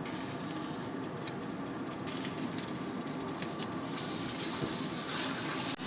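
Egg-battered oyster pancakes sizzling in oil in a frying pan, a steady crackling hiss with a few faint clicks scattered through it.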